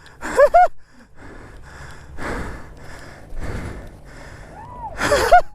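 A person breathing hard, with heavy rushing breaths in the middle, after a short excited vocal cry at the start and before another near the end.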